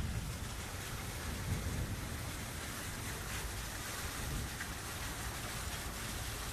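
Steady heavy rain falling during a thunderstorm, a continuous hiss with a low rumble underneath.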